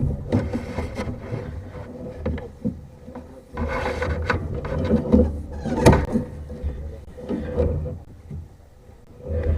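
Irregular rubbing, scraping and knocking over a low rumble, with a sharp knock about six seconds in.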